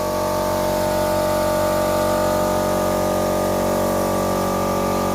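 A machine motor running steadily, a constant hum with several fixed tones that holds at one level without change.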